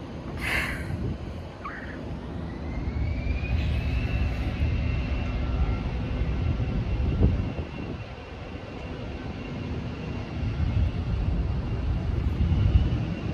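Steady low rumble of vehicle engines, with a high whine that rises about two seconds in and then holds steady.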